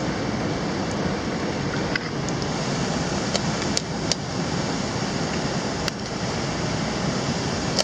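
Mountain stream water rushing steadily, with a few sharp clicks scattered through it.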